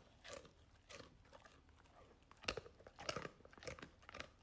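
A Labrador chewing a large, hard, crunchy dog treat: a string of irregular crunches, the sharpest about two and a half seconds in.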